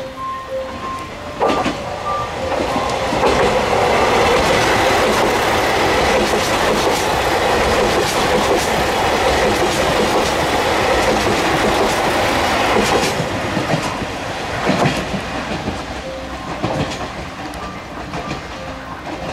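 HOT7000-series diesel limited express (Super Hakuto) running through a station without stopping: a loud rush of wheels, with rail-joint clickety-clack, that builds about a second and a half in and fades after about thirteen seconds. A repeating ding is heard at the start and again near the end.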